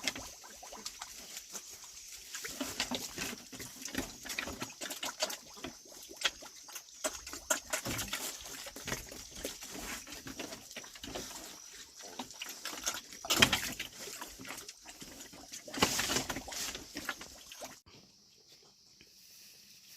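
Pigs feeding: a dense run of short wet chewing and slurping clicks, with two louder pig calls about 13 and 16 seconds in. The sound drops off suddenly a couple of seconds before the end.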